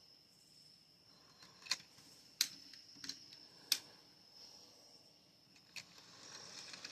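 Five sharp, light clicks scattered over a few seconds from OO gauge model wagons and their couplings knocking as the shunter pushes them into a siding, over a faint high steady whine.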